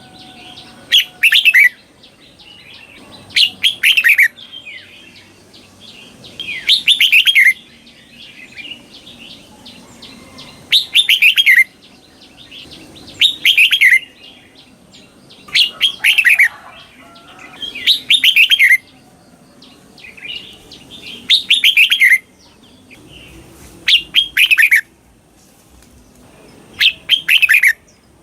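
Red-whiskered bulbul singing its doubled ('เบิ้ล') song, slow and clear. Short phrases of quick falling whistled notes come about every two to three seconds, ten times, over faint chirping.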